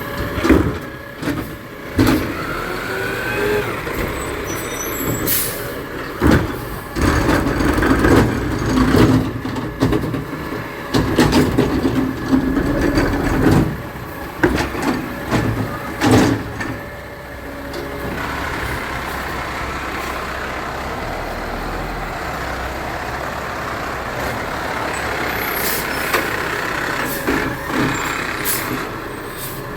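Garbage truck at work: its engine runs under a string of sharp clanks and bangs. From about halfway through, a steadier running sound takes over, with a few more knocks near the end.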